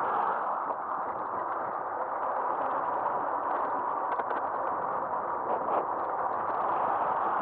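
Steady rush of wind and road noise picked up by an action camera mounted on the front of a moving e-bike, with a few faint clicks and rattles over it.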